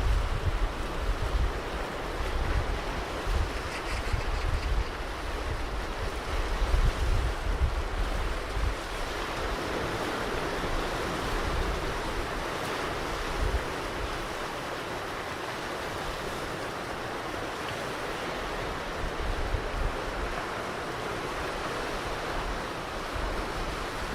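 Ocean surf washing onto a beach, a steady hiss of breaking waves, with wind buffeting the microphone in low gusts during the first several seconds.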